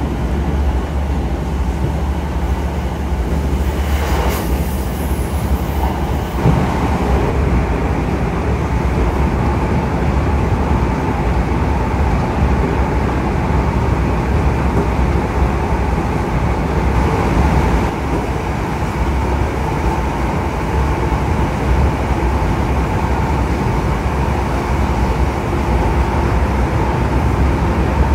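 Passenger train running, heard from inside the carriage: a steady low rumble with a faint constant whine. A brief high hiss comes in about four seconds in and stops a couple of seconds later.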